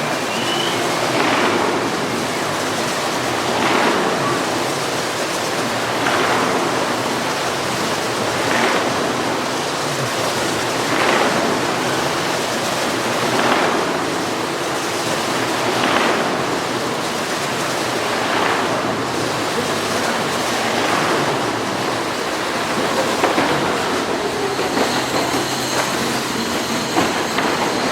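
Racing go-kart engine running hard as the kart circles the Wall of Death drum, its sound swelling each time it sweeps past, about once every two and a half seconds.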